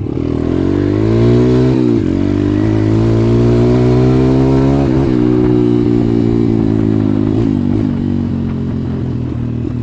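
140cc pit bike's single-cylinder four-stroke engine accelerating under load: the pitch climbs, drops sharply at an upshift under two seconds in, climbs again and drops at a second shift about halfway, then holds a steady cruise.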